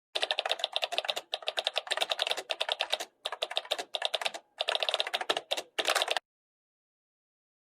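Computer keyboard typing: rapid keystrokes in five quick runs separated by short pauses, stopping abruptly about six seconds in.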